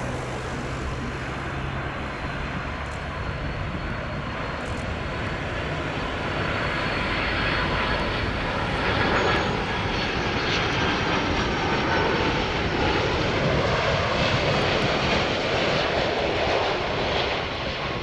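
Jet airliner on landing approach passing by: a broad engine rumble and rush that swells about a third of the way in and stays loud, with a faint high whine over it, easing slightly near the end.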